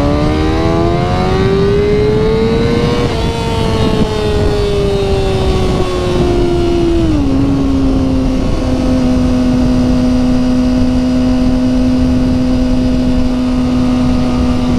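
Kawasaki ZX-6R's inline-four engine accelerating hard in second gear, its pitch rising for about three seconds, then falling slowly, dropping again about seven seconds in and holding steady for the rest. A low rush of wind noise runs under it.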